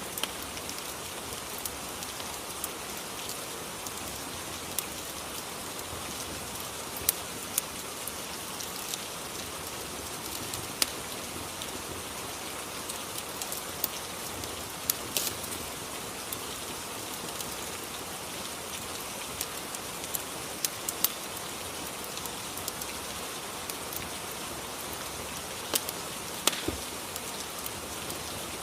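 Steady rain ambience, an even hiss with scattered sharp little pops and clicks throughout, a few of them louder.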